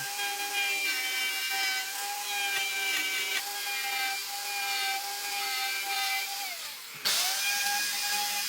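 High-speed electric power tool working wood, its motor whining steadily. About six and a half seconds in, the pitch sags as the tool slows. After a sudden break it spins back up to speed.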